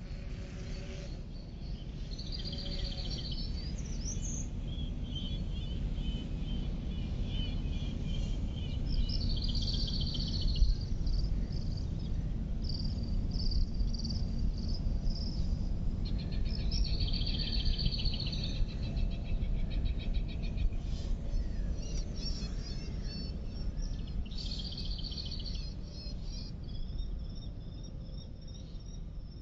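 Outdoor birdsong: short, fast trilled phrases repeated every several seconds, over a steady low rumble.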